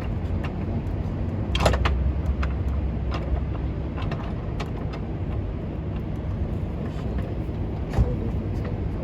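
Scattered metallic clicks and clinks of bolts and hand tools during work on an engine mount bracket, the sharpest about a second and a half in, over a steady low rumble.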